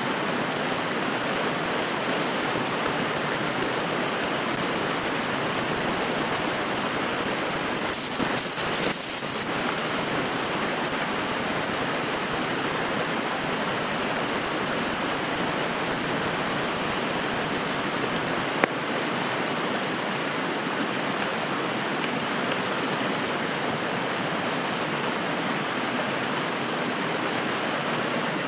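River water flowing steadily, an even rushing noise. A brief rustle comes about eight seconds in, and a single sharp click sounds about two-thirds of the way through.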